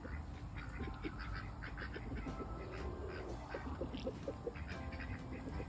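Backyard poultry calling: many short, scattered quacks and clucks.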